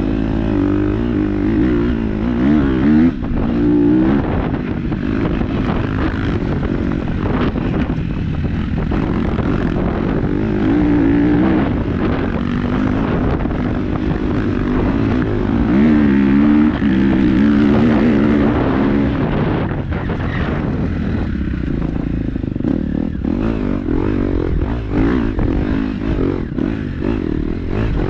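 KTM 250 dirt-bike engine being ridden on a trail, its pitch rising and falling over and over as the throttle opens and closes.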